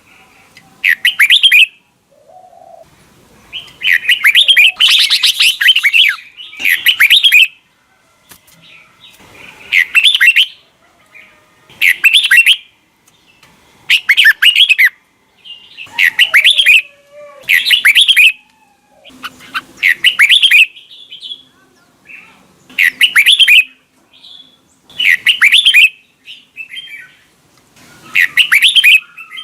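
Red-whiskered bulbul singing loud, short warbled phrases, one every couple of seconds.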